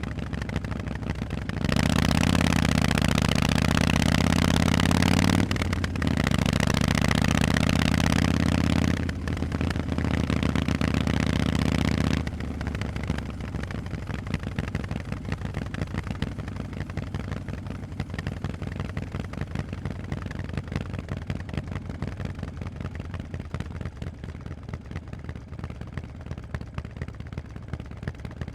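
Harley-Davidson Forty-Eight V-twin through Vance & Hines exhausts, running under load for about ten seconds with a brief dip in between, as if through a gear change. From about twelve seconds in it falls back to a quieter, rapid off-throttle burble that fades slowly.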